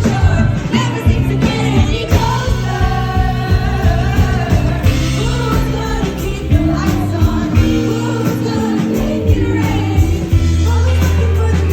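Live indie-folk rock band playing and singing, with drums and bass, recorded from the crowd on a phone, so the sound is loud and somewhat distorted; audience members sing along.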